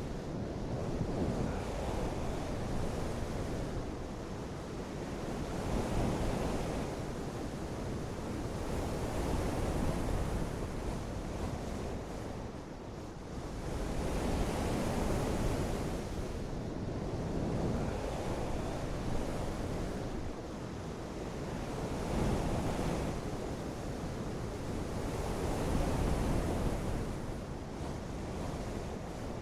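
Steady rushing of water, deep and full, swelling and easing every few seconds.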